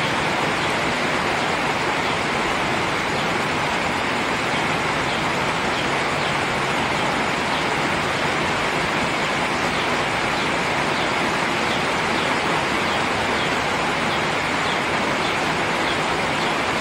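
Steady rain falling, an even, unbroken hiss with no change in level.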